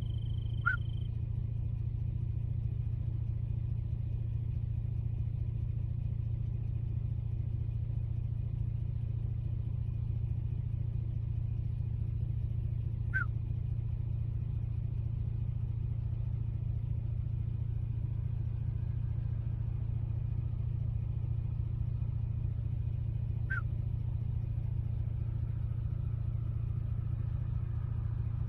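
A steady low rumble throughout, with three brief, falling high chirps spaced about ten seconds apart.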